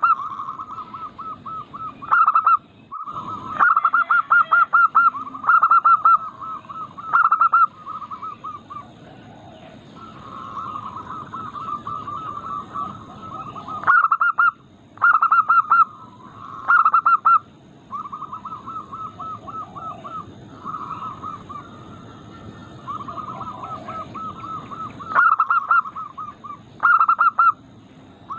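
Zebra doves (perkutut) cooing: repeated staccato, rapidly pulsed coo phrases, with loud phrases every second or two over a fainter bird cooing almost without pause.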